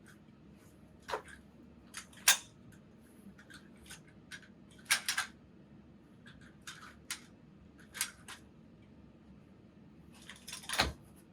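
Scattered short clicks, knocks and rustles of a Graco Pack 'n Play playard being handled, the loudest about two seconds in and another near the end.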